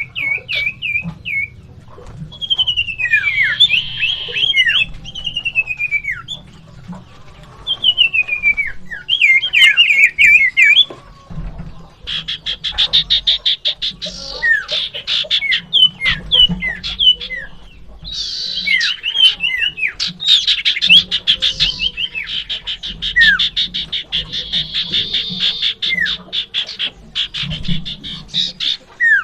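Common iora (sirtu) singing energetically: repeated whistled notes that slide down in pitch, broken by long, fast rattling trills, over a low background hum.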